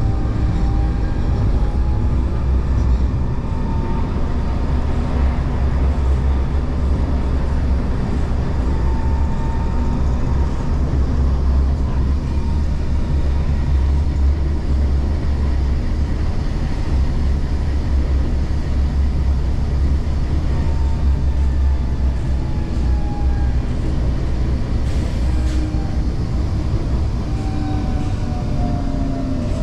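Tram running on its tracks: a steady low rumble with an electric motor whine that glides up and down in pitch as it speeds up and slows.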